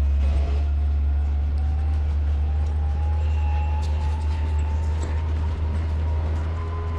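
Off-road vehicle driving, its engine running steadily with a loud low drone and a fainter whine that rises slowly in pitch.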